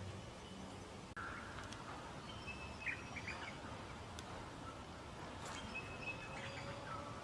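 Birds calling: short, high chirps in two brief clusters a few seconds apart, over steady outdoor background noise.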